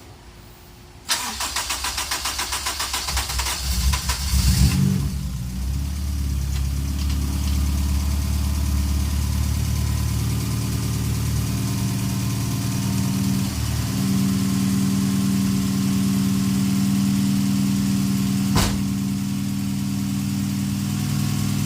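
Honda hatchback engine cranked by its starter for about three seconds, catching with a brief flare and settling into a steady idle, on freshly fitted coil packs and spark plugs. A single sharp click comes near the end.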